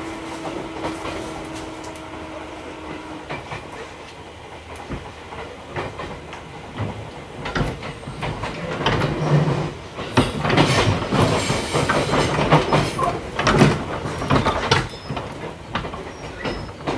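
Running noise heard inside a JR 211-series electric train car as it nears a station: wheels clacking over rail joints over a continuous rumble. A steady hum stops about three seconds in, and the clatter grows louder and busier with rapid clicks from about eight seconds in.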